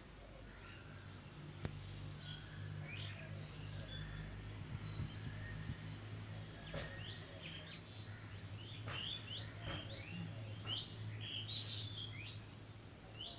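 Faint chirping of small birds: many short, high calls scattered throughout, over a steady low hum.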